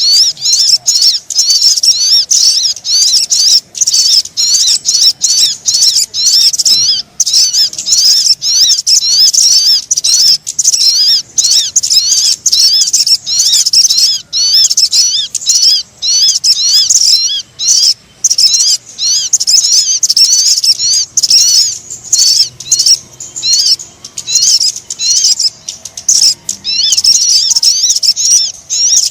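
Recorded lure call of sogon birds: a loud, continuous stream of high, rapid chirping notes, many a second, broken only by brief pauses.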